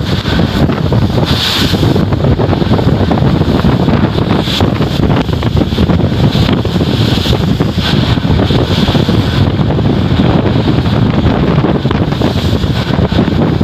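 Strong wind buffeting the microphone on a ship's deck: a loud, steady low rumble with hissing gusts that rise and fall.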